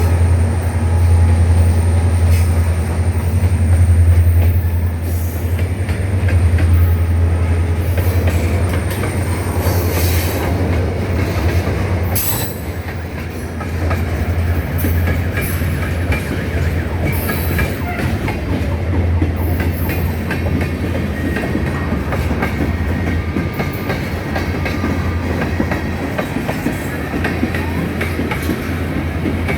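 Two EMD diesel-electric locomotives, a JT26CW-2B and an SD40T-2, running with a deep, steady engine drone that is loudest for the first dozen seconds and then eases off. Wheels click over the rail joints.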